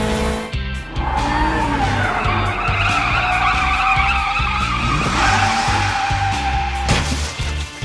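Cartoon tyre-screech sound effect, a long skidding squeal lasting several seconds over upbeat background music, with a sharp knock near the end.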